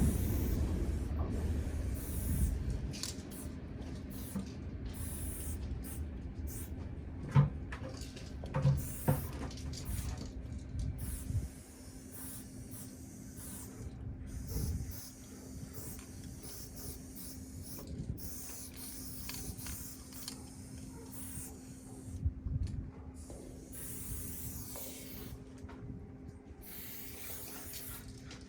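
Aerosol spray paint can hissing in repeated on-and-off bursts. A low rumble fades out over the first few seconds, and a few sharp knocks come a little past a quarter of the way in.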